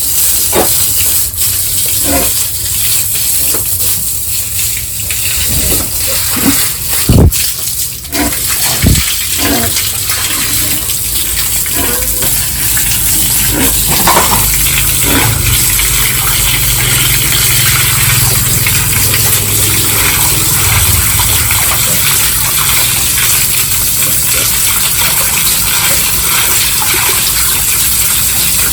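A steady rush of water spraying from a hose, with a few sharp knocks partway through.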